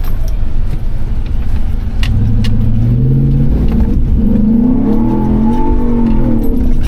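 First-generation Ford F-150 Raptor's V8 engine pulling under throttle on a dirt track. Its pitch climbs from about three seconds in and eases off near the end. A few short clicks and rattles come from the truck over the rough ground.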